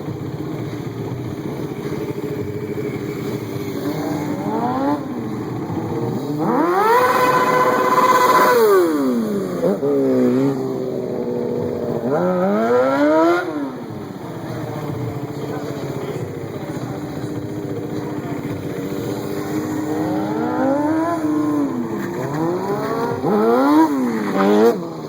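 A stunt vehicle's engine revving up and down again and again. The longest, highest rev comes about seven to nine seconds in, with further sharp revs near the middle and end.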